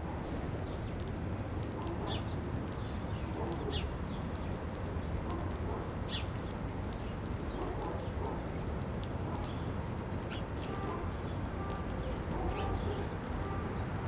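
Scattered short, high chirps from a flock of small seed-eating birds feeding on the ground, over a steady low background rumble.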